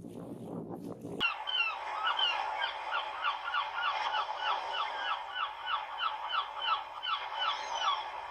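A bird calling in a rapid, regular series of short notes, about three or four a second, starting suddenly about a second in.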